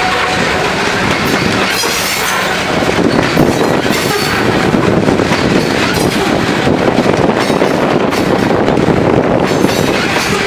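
Loaded coal hopper cars of a CSX freight train rolling past at speed, their steel wheels rumbling and clacking over the rail joints, with a faint steady wheel squeal.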